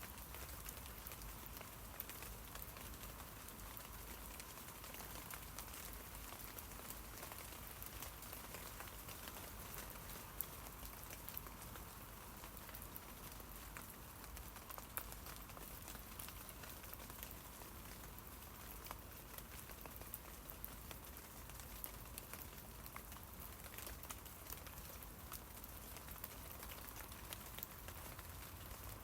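Steady rain falling on tree leaves: an even hiss with many small scattered drop ticks.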